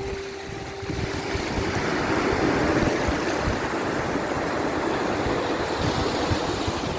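Sea surf: a steady rush of waves, swelling about two seconds in, with a few faint held tones.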